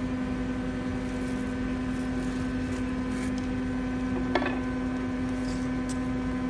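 A steady machine hum holding one low tone, with a single short knock about four seconds in.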